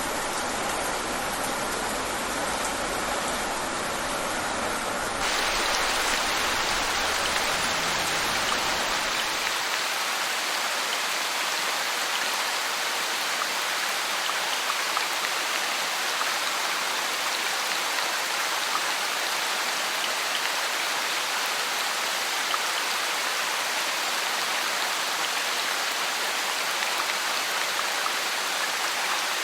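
Steady rain falling. About five seconds in it turns brighter and slightly louder, as if a different rain recording takes over, and the low rumble underneath fades out a few seconds later.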